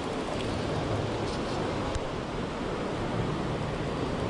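Steady rush of water pouring over a creek spillway.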